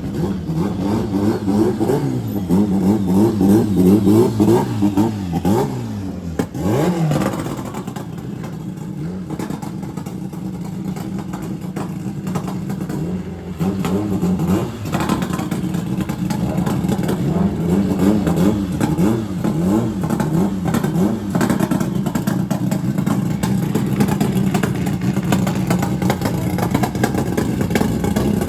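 Car engines idling and revving at a drag strip, their pitch rising and falling over and over. The revving is busiest in the first few seconds and again past the middle, with steadier running in between.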